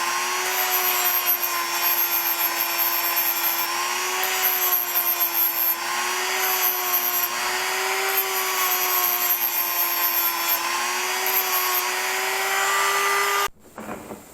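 Electric power tool running steadily, its motor whine wavering slightly under load with a hiss on top; it cuts off suddenly near the end.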